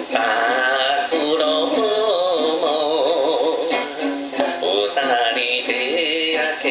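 A man singing a Japanese enka-style song with heavy vibrato over his own instrumental accompaniment.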